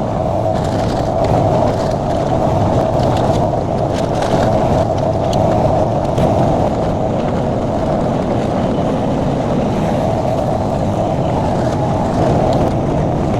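Derette XC1100 mini skid steer's engine running steadily, with a few faint clicks.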